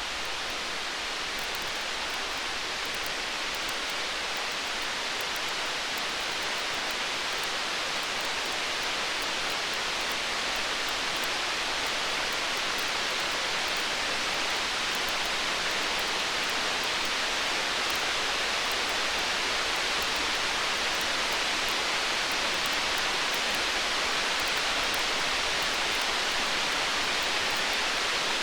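Steady rain-like hiss from a stormy-night and campfire ambience, with faint fine crackling from the fire. It swells slightly over the stretch, and no thunder rumble comes through.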